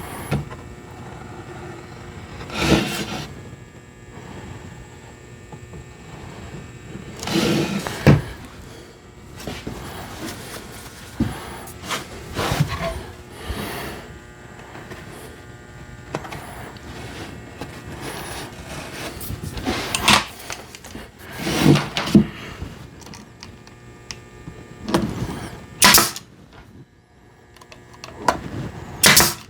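Workshop handling noises: an irregular string of knocks, clatters and short scraping sounds, as wood pieces and tools are moved about on a bench.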